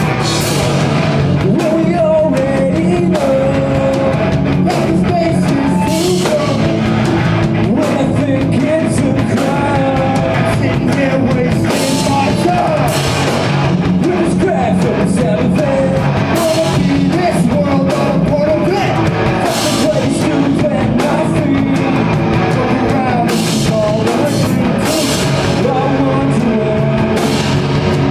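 A rock band playing live: loud, distorted guitars and a drum kit with frequent cymbal crashes, with a singer's voice over the top throughout.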